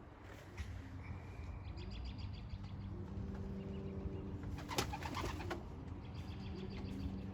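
Young racing pigeons cooing in low steady hums, with a brief loud flurry of wing flapping a little over halfway through.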